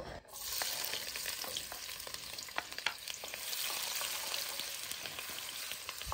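Onion, garlic and serrano chiles sizzling in hot pork lard, the hiss starting suddenly as they drop into the pan and going on steadily with small pops. A wooden spoon stirs them around the glazed clay cazuela.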